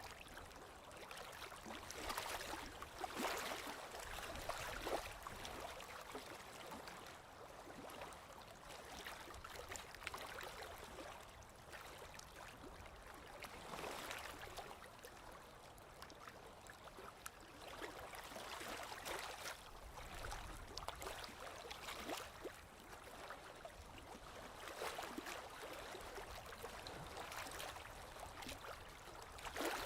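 Small lake waves lapping on the shore: soft, irregular splashes of water that swell and fade every few seconds.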